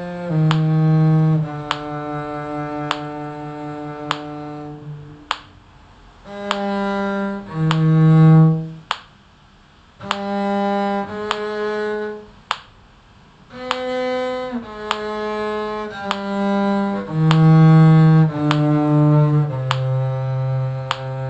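A bowed string instrument in the viola–cello range played with a practice mute, sounding a slow line of long held notes with short breaks between phrases. A steady tick about every 1.2 seconds keeps time.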